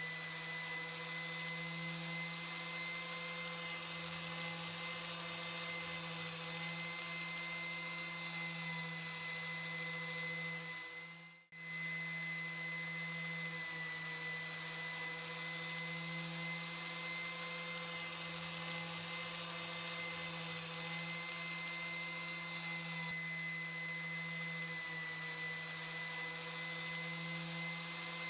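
An electric power tool's motor running steadily with a constant whine, cut off briefly about halfway through before running on as before.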